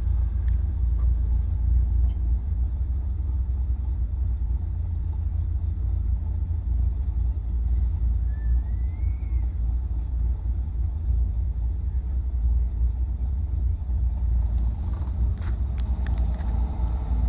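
Chevrolet Impala's 300-horsepower 327 small-block V8 with a Holley four-barrel, running with a steady low rumble.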